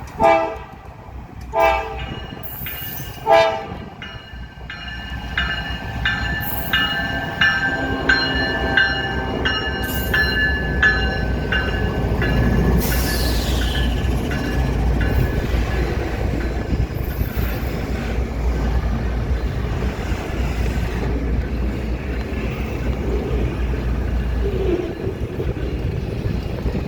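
Ferromex diesel locomotive sounding three short horn blasts, then a bell ringing quickly for several seconds, followed by the steady low rumble of the train moving.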